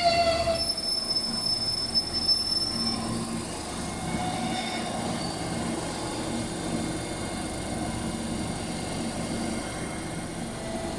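Electric train at a station platform: its horn cuts off just after the start, then the wheels give a high, steady squeal on the rails for about three seconds, and a steady low running rumble carries on after it.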